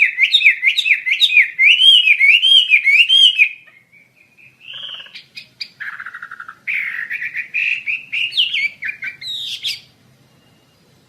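A Wambi Asia songbird singing: a fast run of loud, high chirping notes that breaks off about three and a half seconds in, then softer scattered calls and a second quick run of notes that stops about a second before the end.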